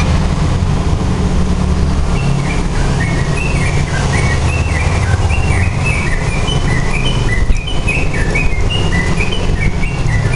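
Sooty-headed bulbul (trucukan) singing quick phrases of short chirping notes, starting about two seconds in, over a steady low rumble. A single sharp knock comes about halfway through.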